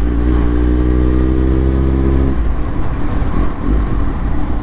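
Kawasaki Z900's inline-four engine pulling steadily under throttle, its revs rising slowly. About two and a half seconds in the even engine note breaks off into rough wind and road noise, as when the throttle is closed, and a lower engine note comes back near the end.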